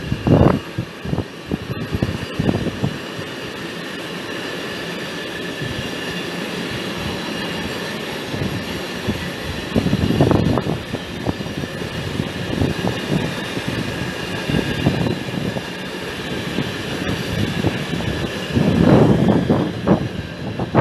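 Train moving through a railway station: a steady running noise with faint steady tones, and louder low bursts near the start, about ten seconds in, and again near the end.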